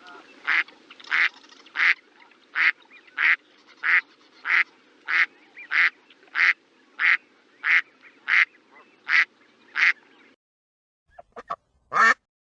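A duck quacking in a steady series, about one quack every two-thirds of a second, for about ten seconds. After a short pause come a few quick quacks and one louder call near the end.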